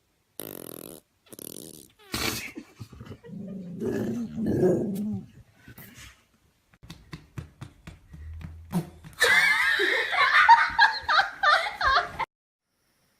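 A run of short pet clips cut together: two brief buzzy noises near the start, a dog growling, scattered clicks, and a stretch of laughter in the last few seconds that cuts off suddenly.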